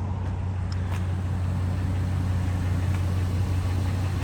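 A car driving: a steady low engine and road drone with a constant hiss of road noise.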